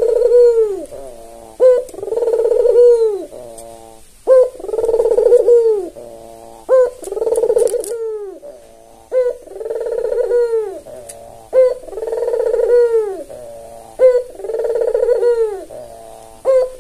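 Albino Barbary dove (white, red-eyed puter) cooing again and again. Each phrase is a short sharp note followed by a longer coo that rises and falls in pitch, about one phrase every two and a half seconds.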